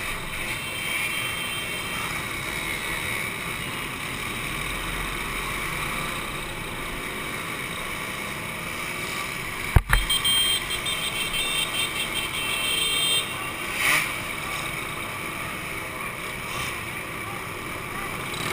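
Two-stroke motorcycle engines running, with a sharp knock near the middle followed by a few seconds of uneven, rising and falling engine sound.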